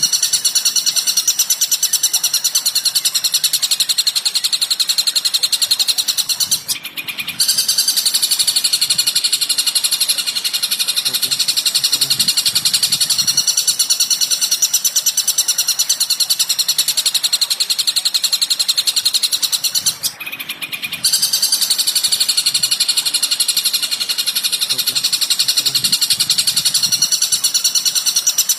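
Recorded songbird calls: a dense, unbroken stream of rapid, high-pitched chirping, as used for masteran training of cage birds. It stops briefly twice, about seven seconds in and about twenty seconds in.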